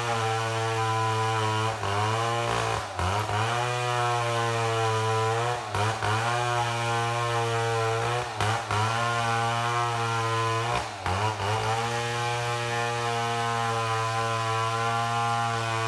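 Chainsaw running at high revs, ripping lengthwise through a mahogany log to mill boards. Its engine note sags briefly and recovers several times as the cut loads it.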